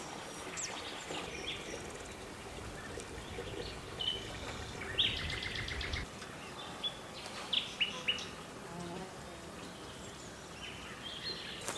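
Small birds chirping in the background: scattered short, high chirps, some sliding down in pitch, with a faint low rumble that stops about six seconds in.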